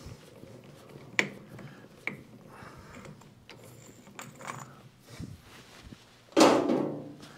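Handling noises in a workshop: a few sharp clicks and knocks, then a louder knock or clatter about six seconds in that fades over about a second.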